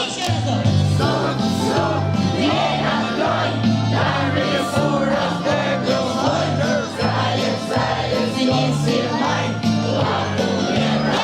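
Music with a group of voices singing together over a bass line that steps from note to note.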